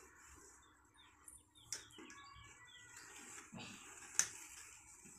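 Faint bird chirps, with a few light clicks and knocks from a round lid being held on cardboard and traced around with a pencil; the sharpest click comes about four seconds in.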